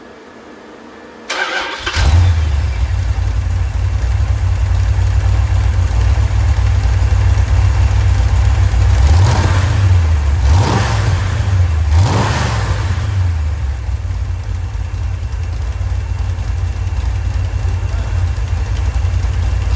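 A freshly rebuilt Mopar 318 V8 cranking briefly on the starter, catching about two seconds in and settling into a steady run. Its revs rise and fall three times in quick succession midway, then it runs steadily again.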